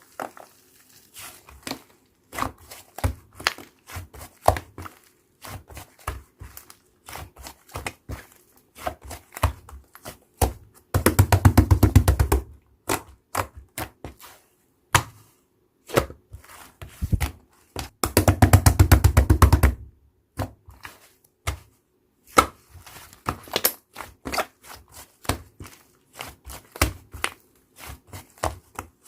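Slime being squeezed and poked by hand: scattered sharp clicks and pops, with two stretches of fast, crackling clicks about 11 and 18 seconds in.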